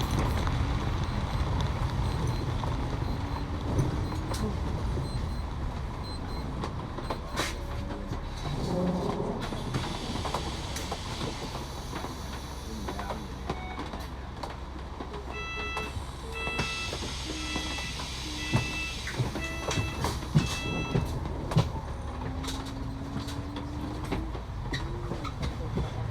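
Passenger train running, a steady low rumble heard from inside the carriage with scattered clicks and knocks. About halfway through comes a run of short electronic beeps lasting several seconds.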